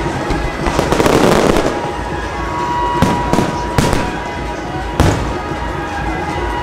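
Fireworks going off: a dense crackling burst about a second in, then sharp bangs, three in quick succession around three to four seconds in and one more near five seconds.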